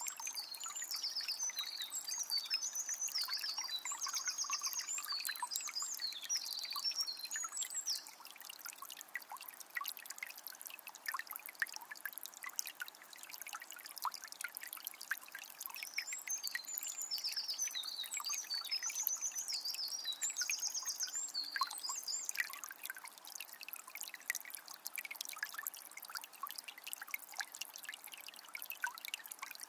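Calm forest river flowing steadily with a fine splashing. A small songbird sings a long, rapid, varied song at the start and again about halfway through.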